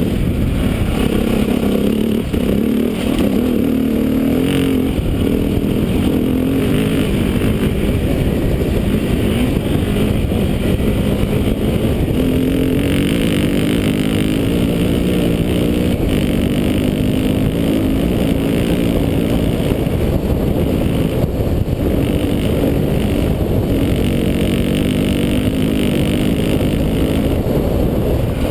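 KTM 400 dirt bike's single-cylinder four-stroke engine running while being ridden on a dirt track, its revs rising and falling with the throttle.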